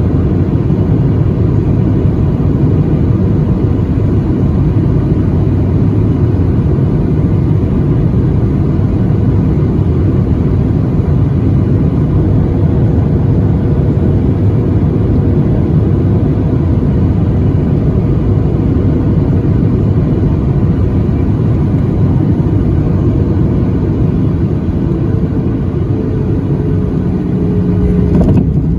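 Steady engine and airflow noise inside the cabin of a Boeing 737-800, its CFM56 turbofans running, with a faint steady tone that dips slightly in pitch near the end.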